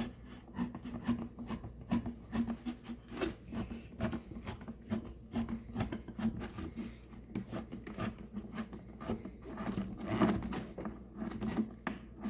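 A clamp being run down tight by hand on the blower's plastic tube, with repeated scraping and clicking strokes.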